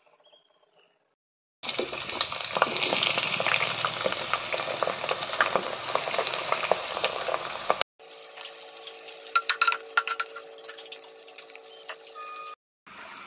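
Sliced onions frying in hot oil in a pot, sizzling with dense crackling. After a cut the frying is quieter, with sharp clicks of stirring, then settles into a steady sizzle.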